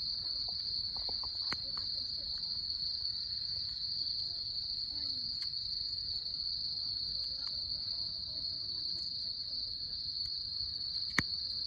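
Steady high-pitched chorus of insects, crickets or similar, with scattered faint crackles and one sharp pop near the end from the wood fire.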